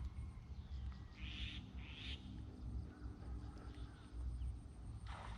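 Two short, high bird calls one after the other about a second and a half in, over a faint low rumble.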